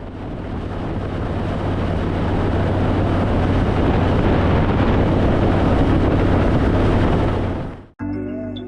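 Harley-Davidson Fat Boy V-twin motorcycle on the move, its engine running under a loud rush of riding wind that grows louder over several seconds. It cuts off abruptly near the end, and music starts.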